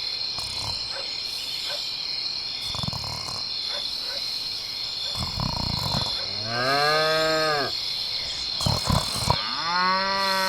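A cow mooing twice, each low call lasting about a second and rising then falling in pitch, over a steady high chirring like crickets.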